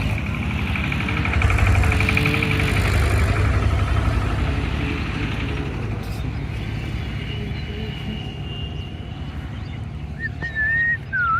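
A motor engine running with a pulsing low rumble that slowly fades away, then a short whistled note that dips in pitch near the end.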